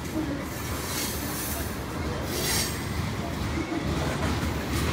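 Freight train cars rolling past, their wheels rumbling and clicking over the rails, with two short high hisses about one and two and a half seconds in.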